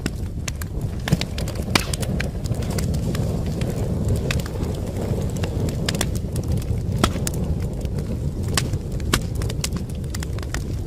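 Wood fire crackling in a fireplace: irregular sharp pops and snaps, several a second at most, over a steady low rumble of the burning logs.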